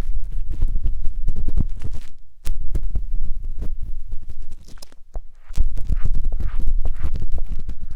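Matchsticks scraping and rubbing inside the silicone ears of a 3Dio binaural microphone: dense crackly scratching over a heavy close rumble, with short pauses about two and a half and five seconds in.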